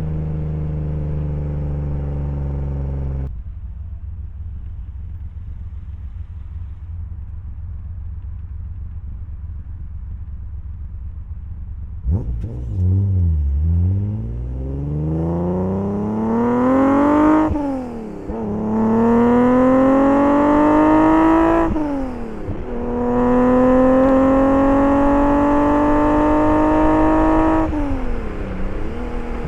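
1983 BMW E30 323i's 2.3-litre straight-six under way. A steady engine note drops away after about three seconds to a low rumble, then the engine revs up hard, its pitch rising and falling back twice at upshifts, and it eases off near the end.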